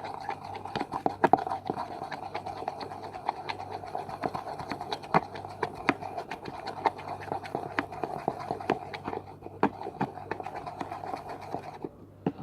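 White glue with black colouring being stirred and beaten with a utensil in a container: quick, irregular scraping and clicking against the container, stopping shortly before the end.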